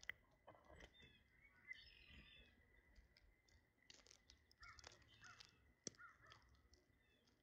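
Faint harsh bird calls, several in a row about four to five seconds in, with a few sharp clicks.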